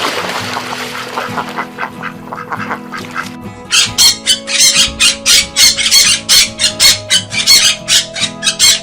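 Ducks quacking in a fast run of loud calls, about three or four a second, starting a few seconds in, over background music.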